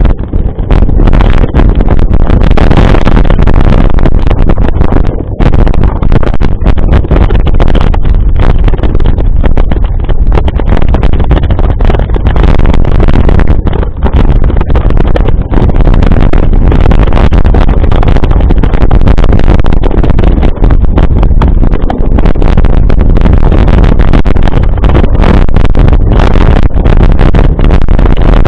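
Loud wind buffeting and riding noise on the microphone of a camera carried on a moving mountain bike, a continuous deep rushing with quick flutters in level.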